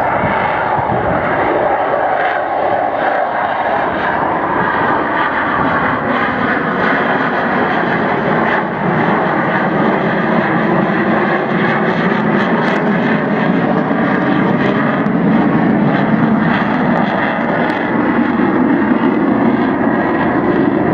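Loud, continuous jet roar of a Royal Netherlands Air Force F-16 Fighting Falcon flying its display, with the deeper part of the roar growing stronger toward the end.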